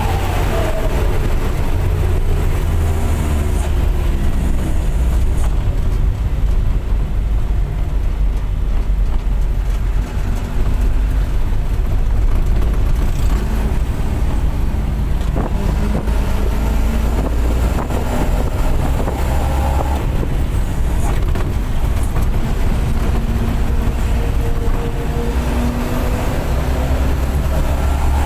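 Diesel bus engine with a loud aftermarket 'serigala' exhaust, running under way with a deep steady rumble. Its pitch drops near the start and climbs again over the last few seconds as the bus accelerates.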